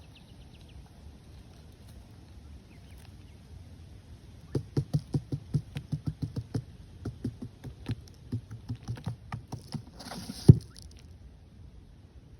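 Quick repeated knocks or strikes, about five a second for several seconds, ending in a short rush of noise and one loud thump.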